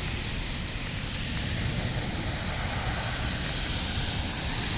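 A vehicle driving through floodwater on a street: a steady rushing noise of water spray and tyres over a low engine rumble.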